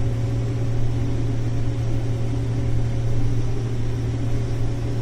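Combine harvester running steadily while shelling corn: an even mechanical drone with a strong low hum and a few fainter steady tones above it.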